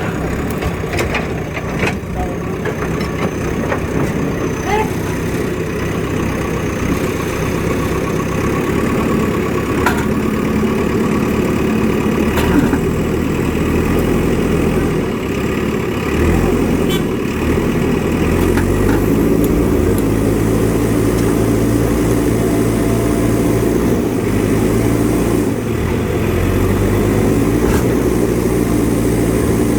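Heavy diesel engines of a JCB 3DX Super backhoe loader and a truck running steadily, then revving up about halfway through and holding at a higher, steadier note.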